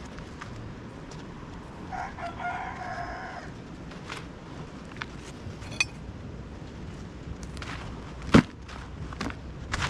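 A rooster crows once, about two seconds in, for over a second. Scattered sharp clicks follow, the loudest a single sharp knock about eight seconds in.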